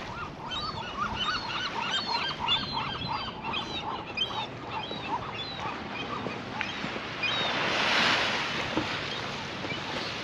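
A flock of birds calling in a rapid run of short arched honking notes, about three a second, that thins out after about six seconds. A rush of noise then swells and fades around eight seconds in.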